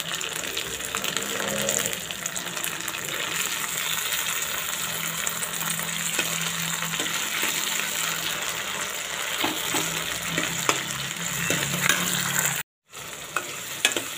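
Chopped tomatoes and onions sizzling in hot oil in a kadai, with a steel ladle stirring and scraping against the pan now and then. A low steady hum runs underneath, and the sound cuts out for a moment near the end.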